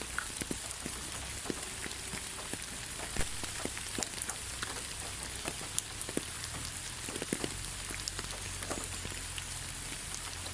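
Steady rain with a constant hiss and many scattered individual drops ticking close by.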